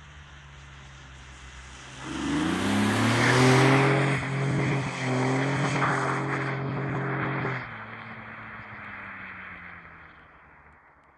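Rear-wheel-drive Ford Sierra Mk2 engine revving hard under full throttle as the car slides on wet tarmac, with a strong hiss of tyres and spray over it. About seven and a half seconds in the throttle lifts sharply and the engine fades as the car moves away.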